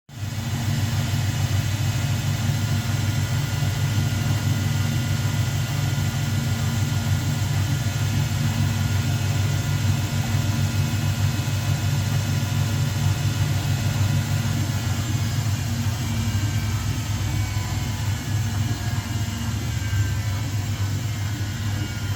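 Front-loading washing machine in a fast spin: a steady deep hum with a high motor whine over it, the whine shifting slightly in pitch near the end.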